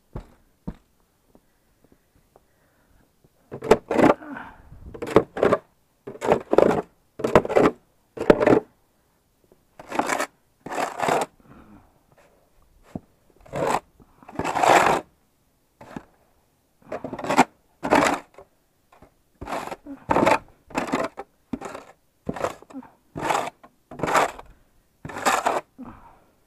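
Snow shovel scraping and scooping through deep snow, about twenty strokes roughly one a second, starting a few seconds in.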